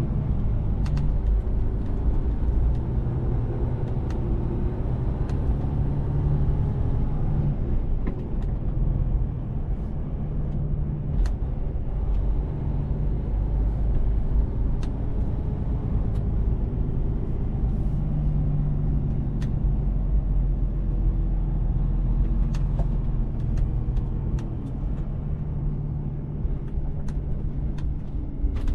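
Mercedes-Benz Actros truck running on the road: a steady low engine and road drone, with the engine note swelling and easing now and then as the truck pulls.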